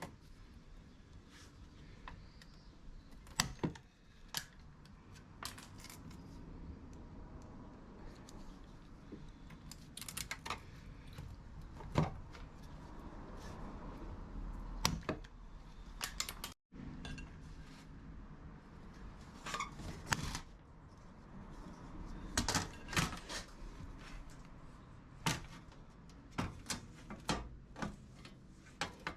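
Metal objects being handled: irregular light metallic clinks and sharp knocks, some in quick clusters, over a low rumble.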